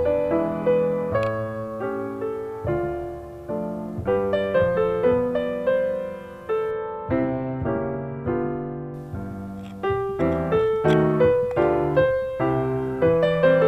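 Background piano music: a melody over chords, with notes struck and decaying in an even rhythm.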